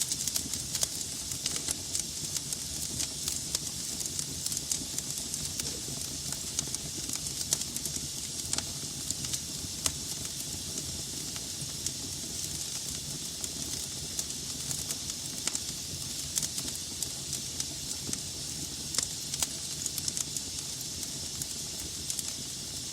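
Wood logs burning in a fireplace: a steady hiss with frequent sharp pops and crackles.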